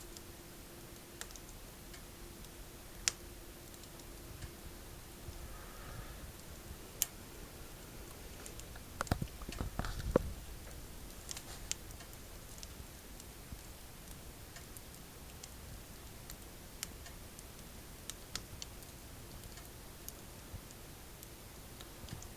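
Firewood crackling in a wood-burning stove: scattered sharp snaps and ticks, with a louder cluster of knocks about nine to ten seconds in.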